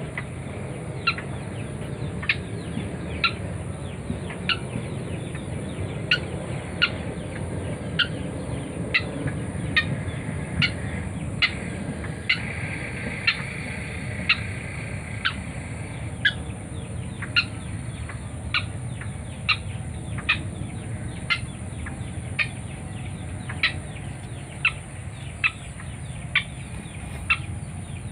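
White-breasted waterhen calling with a short, sharp note repeated about once a second, on and on.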